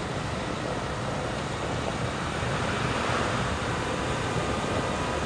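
Large Bell dump trucks running as they drive off in a line, a steady rumbling mixed with wind and surf noise.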